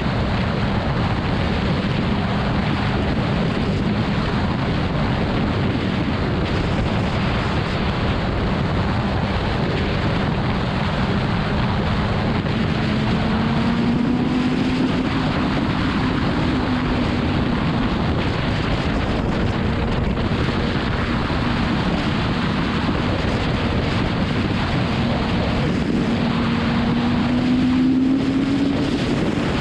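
Motorcycle riding at speed: heavy wind rush on the microphone over a steady engine note, which rises in pitch twice, about halfway through and near the end, as the engine speeds up.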